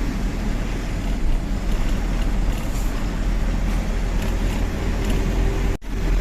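Tata 1512 truck driving laden on the road: steady diesel engine and road noise. The sound drops out for an instant near the end.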